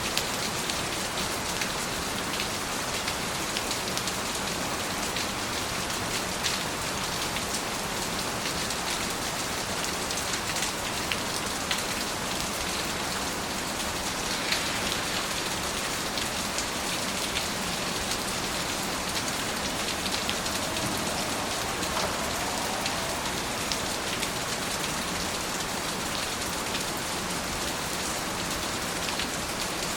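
Steady rain falling on a surface, a dense even patter with many small individual drop ticks.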